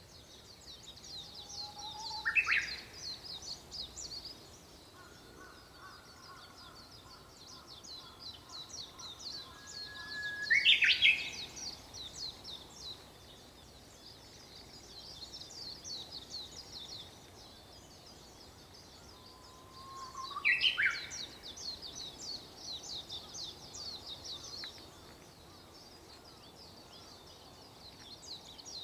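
Japanese bush warbler singing its 'hoo… hokekyo' song three times, about ten seconds apart: each song is a long held whistle followed by quick, sharp up-and-down notes. Underneath, many small birds chirp continuously in a high chorus.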